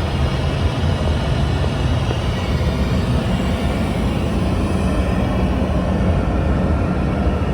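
Steady, loud cabin rumble of a Boeing 747-8 airliner, the engines and the air around the fuselage giving an even roar with a faint hum of steady tones.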